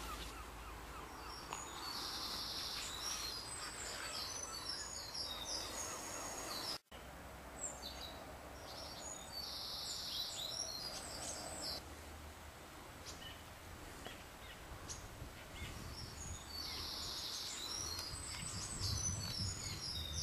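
A songbird singing the same short, high-pitched song three times, several seconds apart, over steady low outdoor background noise. The sound drops out briefly about a third of the way in.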